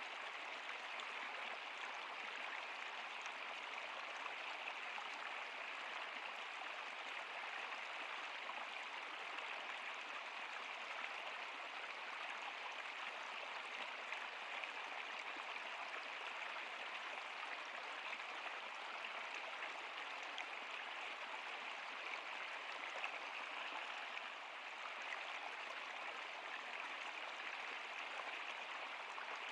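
Running water of a stream or river, a steady, unbroken rush with a hissy, splashing character.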